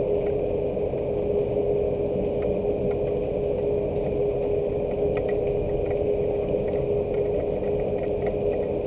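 Steady rain, with a constant machine hum running underneath and scattered light ticks of drops.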